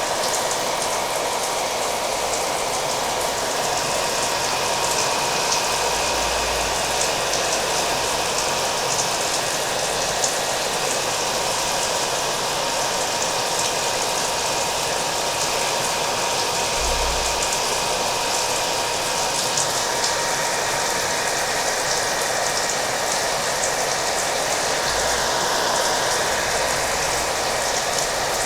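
A hair dryer running steadily, its motor giving a constant whine over a loud airflow hiss, mixed with steady rain.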